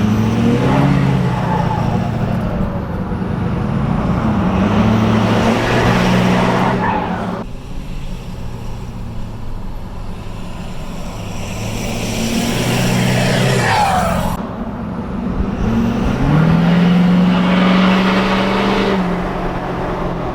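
Straight-piped Ford F-250 diesel engine pulling hard under heavy throttle in three long surges, its pitch climbing in steps, easing off about 7 and 14 seconds in. This is full throttle at which the truck is rolling coal.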